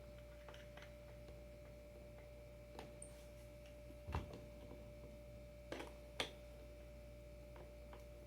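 Faint, sparse clicks and taps of screws and a screwdriver being handled while fitting a surfskate adapter to a skateboard deck, with one louder knock about four seconds in, over a steady faint hum.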